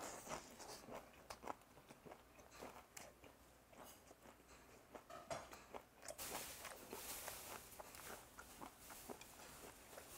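Faint, close-miked chewing of a mouthful of raw goby sashimi wrapped in a perilla leaf: irregular soft crunches and wet mouth clicks, a little louder in the second half.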